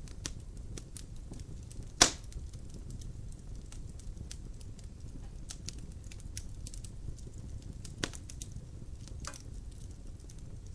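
Wood fire in a fireplace crackling: a low steady rumble of the flames with scattered small snaps, one loud sharp pop about two seconds in and a smaller pop later on.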